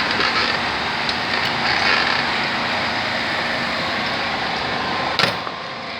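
Steady background noise at an even level, with one sharp click about five seconds in.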